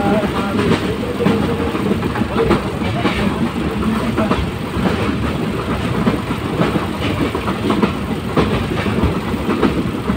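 Passenger train running along the track: a steady rattle and clatter of the carriage and wheels on the rails, heard aboard.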